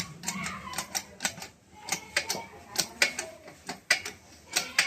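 Quick, light hammer taps, roughly three a second in an uneven rhythm, as work is done on a motor being rewound.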